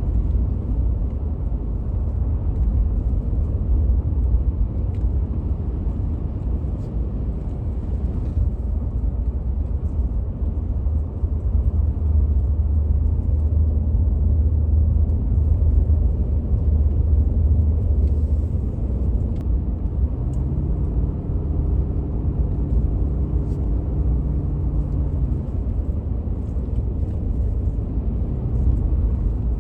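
Steady low road rumble of a vehicle driving, heard from inside the cabin. A steady engine hum rises over it for several seconds about two-thirds of the way in.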